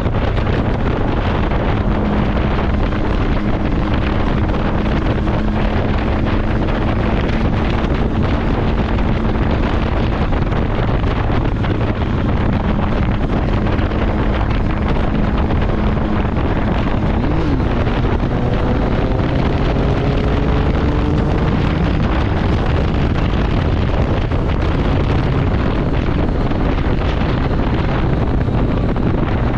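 Heavy wind buffeting on the microphone of a motorcycle at road speed, over the steady drone of its engine. About 17 seconds in the engine note jumps briefly, then climbs steadily for a few seconds as the bike speeds up.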